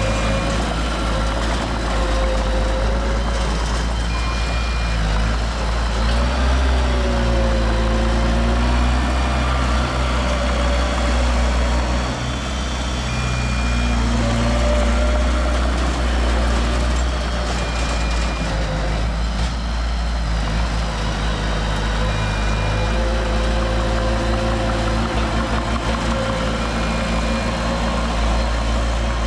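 Heavy diesel construction machinery running steadily, its engine speed slowly rising and falling. A short high beep recurs every few seconds.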